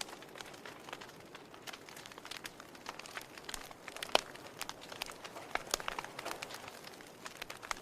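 Wood campfire crackling: irregular sharp pops and snaps over a soft steady hiss, with one louder pop about four seconds in.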